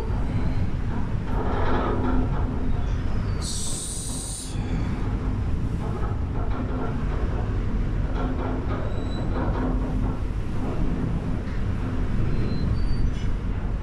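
Passenger ship's engines running with a steady low rumble and hum in rough seas, with wind and wave noise; a brief high hiss about three and a half seconds in.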